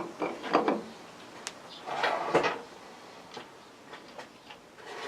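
Workbench handling sounds: a sharp click, then short clunks and rattles in a few clusters as metal parts and tools are moved and set down.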